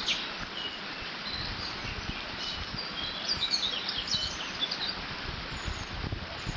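Water running through a beaver dam, a steady rushing, with small birds chirping high over it; the chirping is busiest in the middle. Low, uneven rumbles of wind gusts sit underneath.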